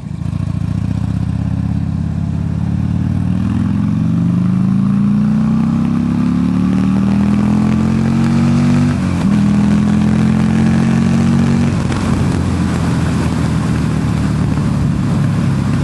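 Motorcycle engine accelerating hard under a quick blast of throttle: its pitch climbs steadily for several seconds, drops sharply at an upshift about halfway through, holds, drops again at a second upshift a few seconds later, then runs steady.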